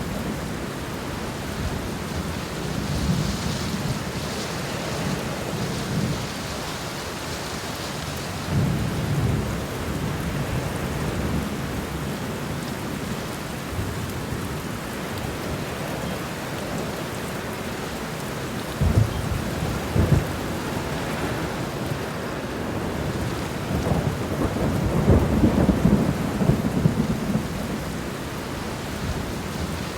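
Steady rain falling, with low rolling rumbles of thunder that swell and fade, the longest and loudest in the last third. Two short, sharp low jolts come close together about two-thirds of the way through.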